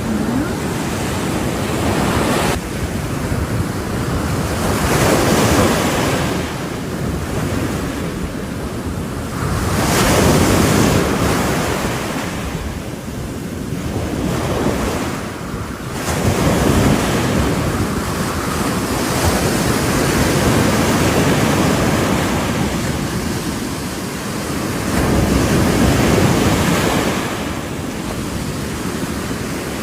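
Ocean waves breaking on a shore, surging and easing every few seconds, with wind buffeting the microphone.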